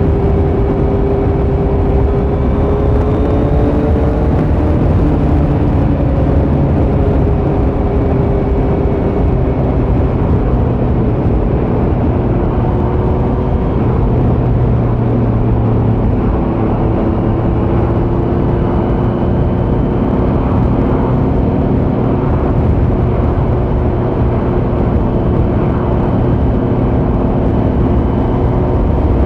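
2018 Kawasaki Z900's inline-four engine running through a Leo Vince muffler on stock headers with the dB killer removed, heard on the move at a fairly steady pace. The engine pitch drifts only slightly, with no hard revving.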